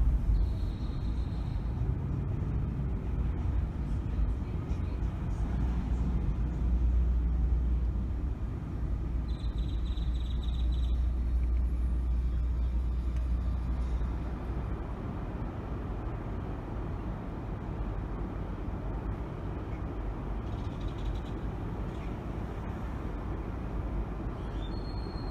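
Car driving through city traffic, heard from inside: a steady low engine and road rumble, heavier at first and easing a little about halfway through. A brief high-pitched tone sounds twice, once near the start and once about ten seconds in.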